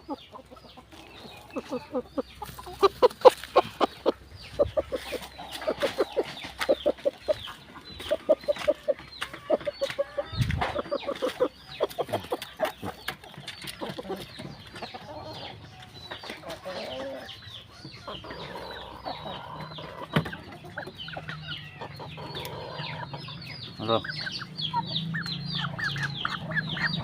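Chickens clucking, with a steady run of rapid, evenly repeated clucks through the first half, followed by scattered shorter, higher calls.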